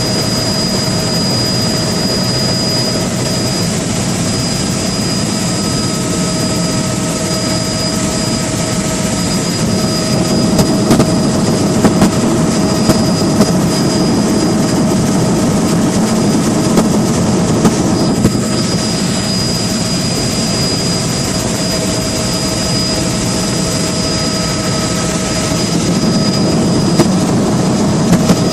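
Steady engine drone with constant high whining tones over a dense rumble, unchanging throughout, with a few faint clicks in the second half.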